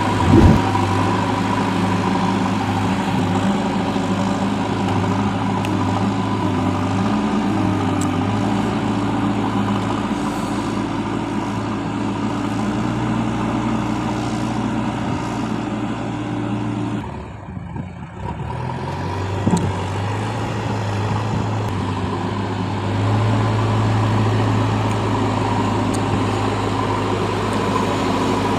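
Heavy diesel engine running steadily with a low, even hum. The sound drops away briefly a little past halfway, then carries on.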